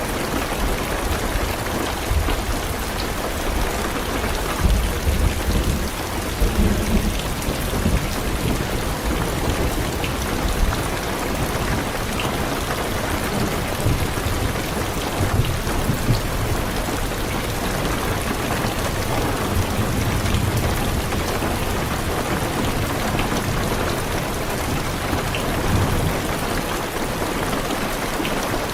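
Heavy rain falling steadily on a car's roof and windows, with scattered drop ticks. Low thunder rolls through several times, strongest about five to seven seconds in.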